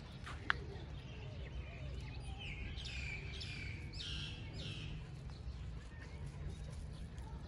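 A bird calls four times in quick succession, short high chirps, over a steady low outdoor rumble.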